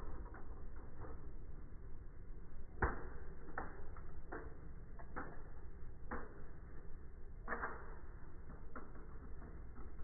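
Scattered knocks and clatters of a plastic toy fire truck crashing and tumbling, played back in slow motion so they sound low and dull. The sharpest knock comes about three seconds in.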